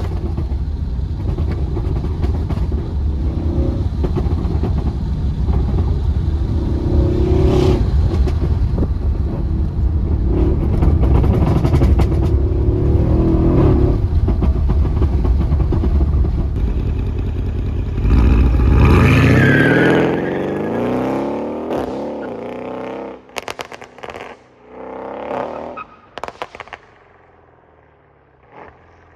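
Mercedes-AMG CLS 63's V8 heard from inside the cabin while driving, a steady drone that rises and falls with the throttle. About eighteen seconds in, the engine revs hard, rising in pitch, then dies away, followed by a series of sharp pops and crackles from the exhaust.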